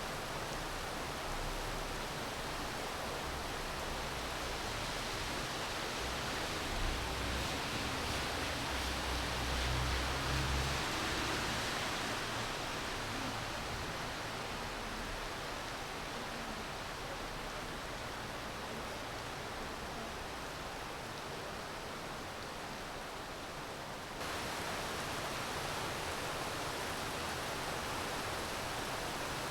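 Steady rain, an even hiss with no single drops standing out. Some low rumbling comes in between about 6 and 11 seconds in, and about 24 seconds in the hiss steps up suddenly, a little louder and brighter.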